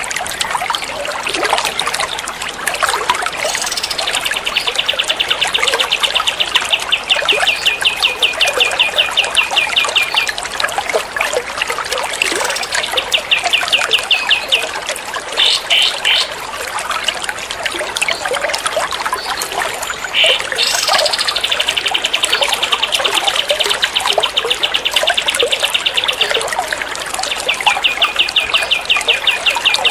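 Songbird recording of long, rapid-fire trills, one sharp note repeated many times a second, breaking off and resuming several times. Trickling water runs underneath throughout.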